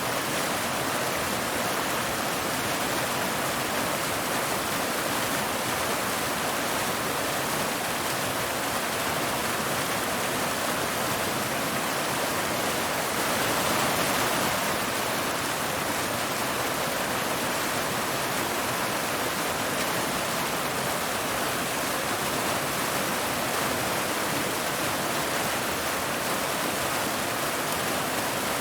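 Waterfall: water pouring steadily over rocks, a constant rushing hiss that swells slightly about halfway through.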